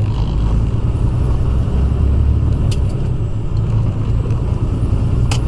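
Semi truck's diesel engine running while driving, a steady low rumble heard from inside the cab, with a couple of brief clicks partway through and near the end.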